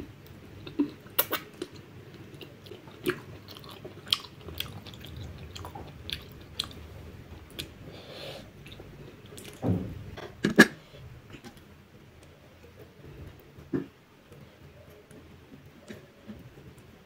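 A person chewing a mouthful of food close to the microphone: irregular wet mouth clicks and smacks, with a louder burst of sounds about ten seconds in.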